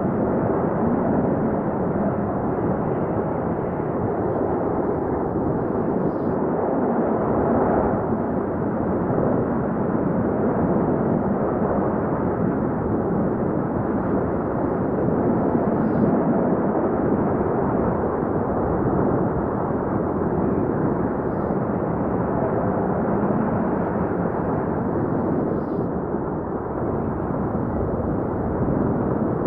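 Strong wind rushing and buffeting the microphone in a steady, loud roar, with no engine note or rhythm in it.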